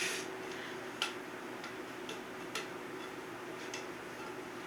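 Quiet room with a few faint, irregularly spaced small clicks, about six in all, over a steady low hum.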